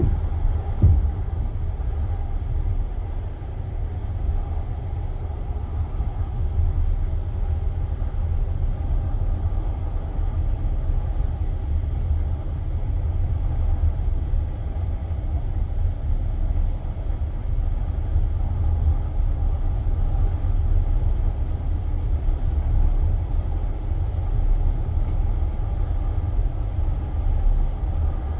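Passenger train carriage rumbling low and steady, heard from inside the car, with a single thump about a second in.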